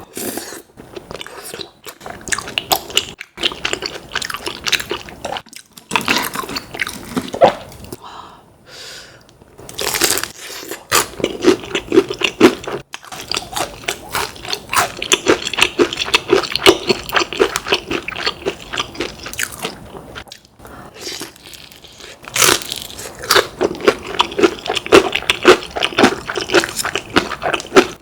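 Close-miked crunching and chewing of crispy fried chicken, in long runs of crackly bites with short pauses between them.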